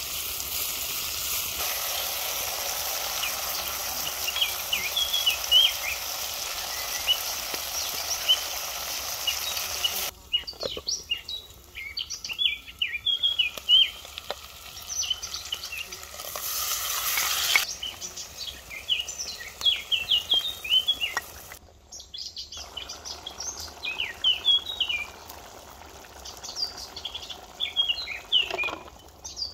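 Food sizzling and frying in a clay pot over a wood fire: a steady hiss for about the first ten seconds and again for a second or two about halfway through, with birds chirping throughout.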